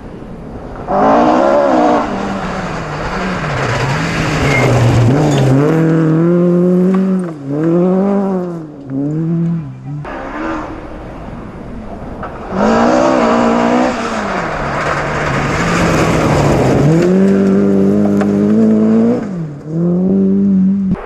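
Rally car engines driven hard on a special stage: the revs climb and drop again and again with gear changes and lifts, in two long loud spells with a quieter gap between them.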